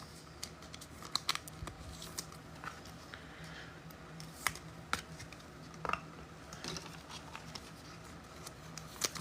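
Faint handling of trading cards and packs: scattered light clicks, snaps and rustles, over a low steady hum.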